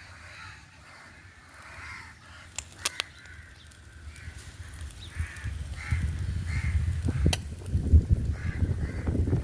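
A bird calling over and over in short harsh calls, about two a second, with a few sharp clicks about three seconds in and again near seven seconds. From about five seconds in, a low rumbling noise rises and becomes the loudest sound.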